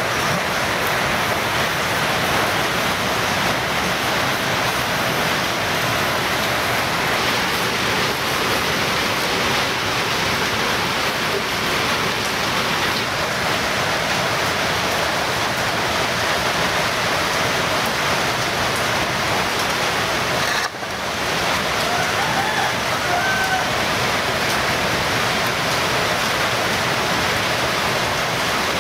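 Steady, even hiss of noise like rain, unbroken except for a brief dip about two-thirds of the way through.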